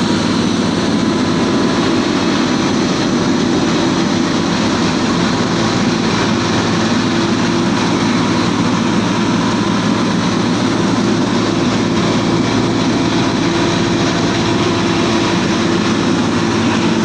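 Paddy husk grinder running steadily under load, a loud unbroken machine noise with a steady hum.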